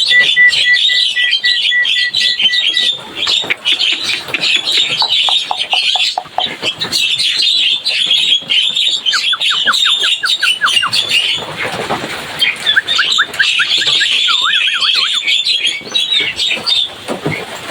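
Javan myna (jalak kebo) chattering noisily, a dense stream of harsh chirps. It opens with a fast, even run of short pips and has two runs of quick repeated whistled sweeps in the middle.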